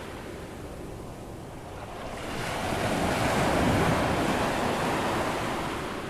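Ocean waves breaking on a beach with an incoming tide: a wash of surf that swells about two seconds in, peaks near four seconds and then recedes, with some wind on the microphone.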